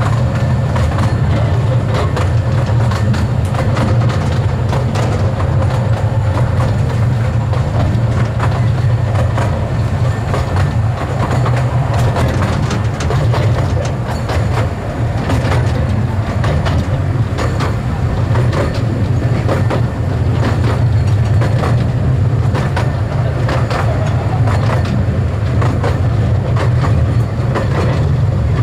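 Miniature railway train running along its track, heard from aboard an open carriage: a steady low rumble with frequent irregular clicks and clacks from the wheels on the rails.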